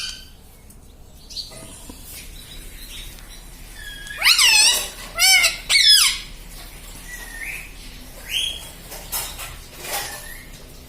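Ring-necked parrot squawking: three loud, arching calls about four seconds in, followed by a few shorter, softer calls.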